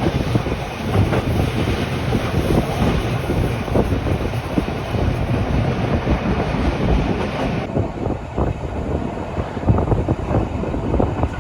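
Rhaetian Railway regional train running on the rails: a steady rumble and rattle with frequent short knocks and clicks from the wheels and carriage. The upper hiss drops away about two-thirds of the way in.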